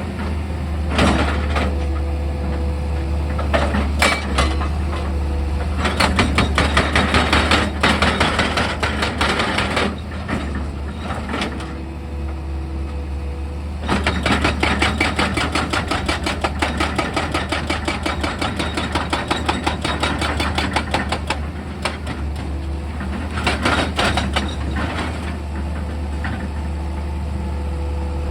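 Heavy diesel machinery running steadily, with several stretches of rapid, evenly repeated mechanical hammering, like a hydraulic rock drill or breaker striking rock.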